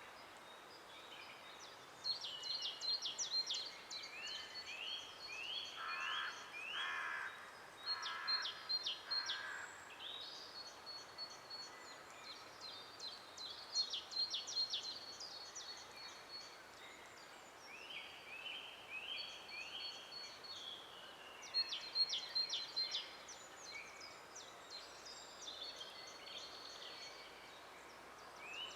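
Several songbirds singing: short, high, quick song phrases of rapid trills and sweeping notes, repeated every few seconds with brief pauses between, over a faint steady hiss.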